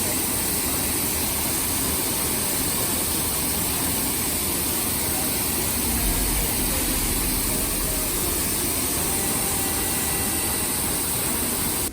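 Steady, loud rushing noise with a strong high hiss, unchanging throughout and cutting off suddenly at the end.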